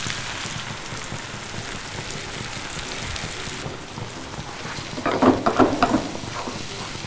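Shallots, tomatoes and freshly ground masala paste sizzling in hot oil in a frying pan as the paste goes in and is stirred with a ladle, a steady hiss. A brief voice is heard about five seconds in.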